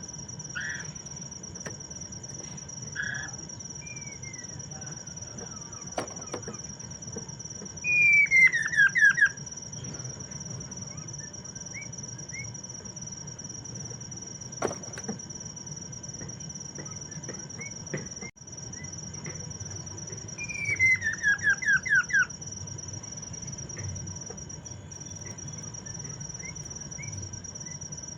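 Black-throated laughingthrush (poksay mandarin) singing: short chirps, and two loud runs of quickly falling whistled notes about 8 and 20 seconds in. Under it runs a continuous high, even insect trill.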